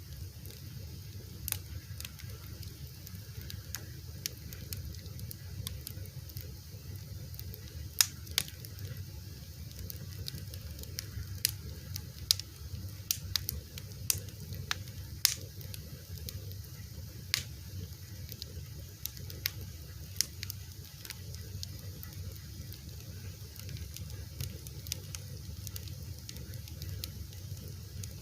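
A fire crackling: a steady low rush under scattered sharp pops and snaps, coming more often through the middle.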